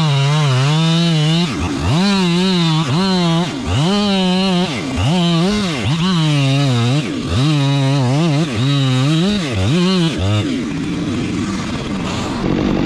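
Two-stroke chainsaw revved in repeated bursts, about eight times: each one climbs quickly to high revs, holds about a second and drops back. Near the end it settles to a lower, steadier running.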